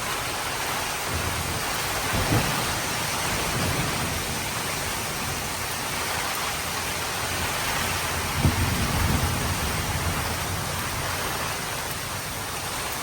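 Heavy rain pouring steadily, with two low rumbles of thunder, about two seconds in and again about eight seconds in.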